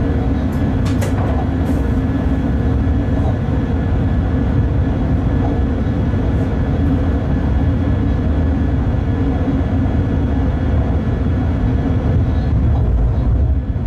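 Bombardier TRAXX class 186 electric locomotive under way, heard from inside its cab: a steady low rumble of the running train with a faint constant whine and a few light ticks.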